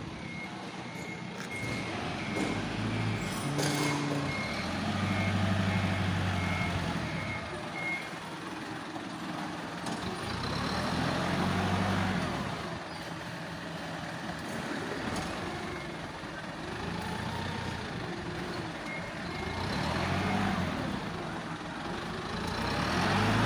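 Truck diesel engine running and revving as the truck manoeuvres. A reversing beeper sounds a steady series of beeps for the first eight seconds or so, and again briefly later.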